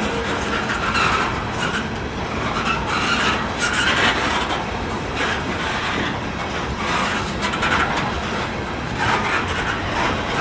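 Covered hopper cars of a freight train rolling past at close range: steady wheel-on-rail rumble and rattle that swells and eases unevenly as the cars go by.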